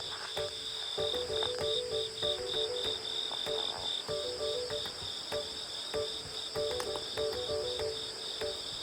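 Insects chirping in a steady, rapidly pulsing high trill, like crickets, over background music with a simple repeating melody.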